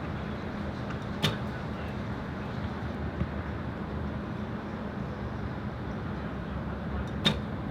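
Steady wind noise buffeting the microphone, with two sharp snaps about six seconds apart and a fainter one between them.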